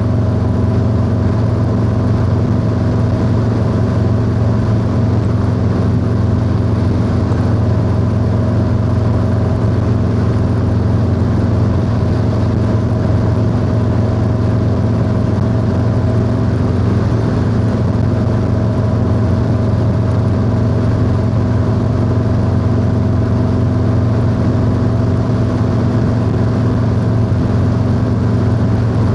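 Harley-Davidson Low Rider S Milwaukee-Eight V-twin running through a 2-into-1 aftermarket exhaust at a steady cruise, engine speed holding even throughout.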